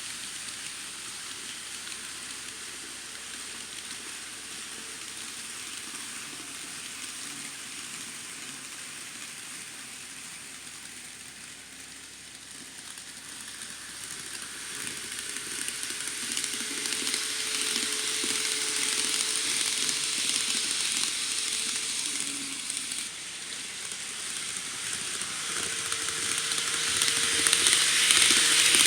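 N scale model Shinkansen train running on the track: a steady hissing rattle of small wheels on rail with a faint motor whine, getting louder in the second half as the train comes closer.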